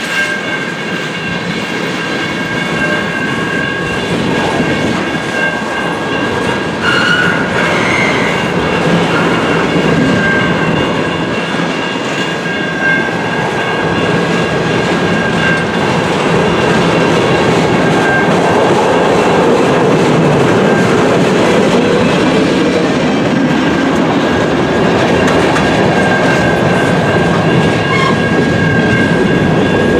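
CN freight train cars rolling past, with steel wheels clicking over rail joints and a continuous rumble. A steady high ringing tone runs over it, and it gets a little louder after the middle.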